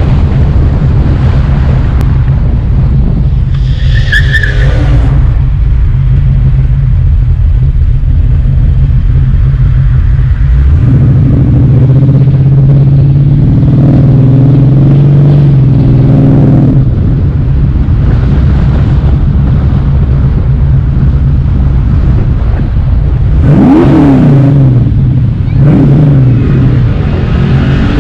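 Car engine running steadily while driving, with the engine note building and pulling harder through the middle. Near the end engine revs rise and fall, and a brief high squeal comes about four seconds in.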